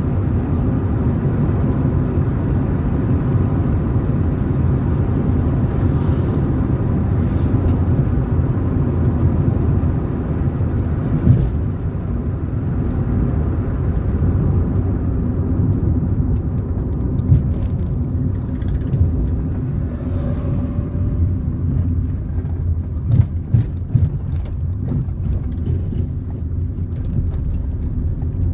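A car driving on the road: steady low rumble of engine and tyre noise, with a few sharp knocks about a third of the way in and twice close together later on.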